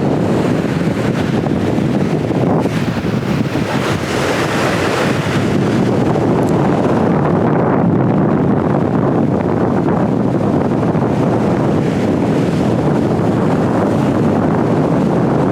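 Strong wind blasting straight into the microphone: a loud, continuous rumbling roar that keeps swelling and easing.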